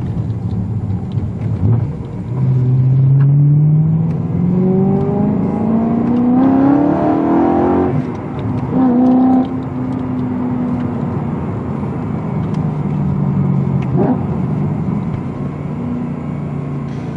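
Car engine and exhaust accelerating: the note climbs steadily in pitch for about six seconds, then falls suddenly. After a short blip it settles into a steady, lower running note.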